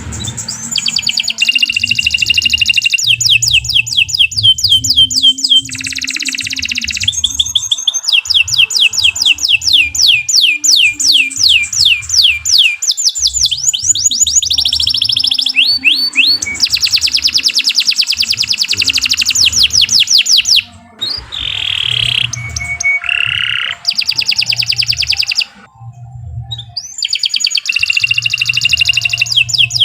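Domestic canary singing a long, continuous song of rapid trills: strings of quick sweeping notes repeated several times a second, with brief pauses in the last third.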